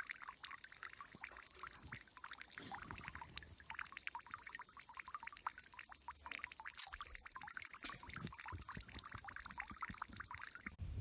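Water trickling, a dense irregular run of small splashes and plinks, which cuts off suddenly near the end.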